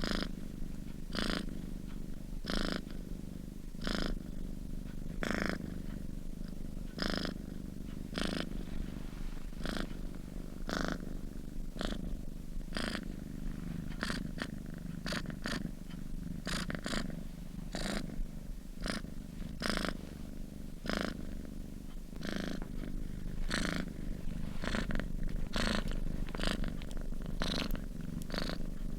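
Domestic cat purring: a continuous low rumble, with a breathy rise at each breath, about one every second or so.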